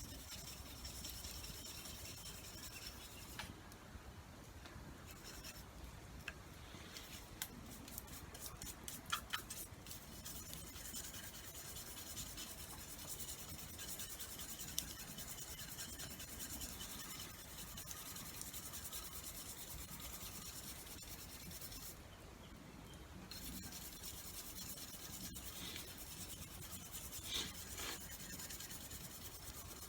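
A hand tool being rubbed and scraped by hand, as in cleaning or sharpening it, in steady rubbing strokes. A quicker run of sharp strokes comes about eight to ten seconds in.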